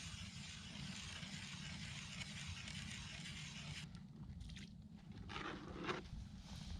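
A MORA hand ice auger cuts through lake ice with a steady scraping hiss that stops abruptly about four seconds in. A few short crunching scrapes follow, loudest near the end, as ice chips are cleared from the hole.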